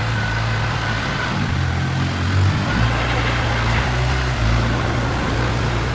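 Heavy diesel engine of a piece of construction machinery running steadily with a low, even rumble.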